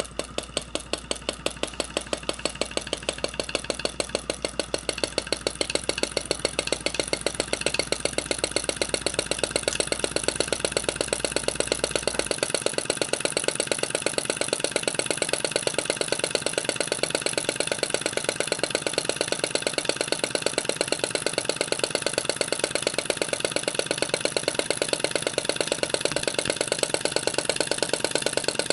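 Bengs flame licker model engine running at a rapid, even beat, a sharp clack on every cycle as the flame is drawn in and the valve snaps shut. It gathers speed and grows louder over the first several seconds, then runs steadily.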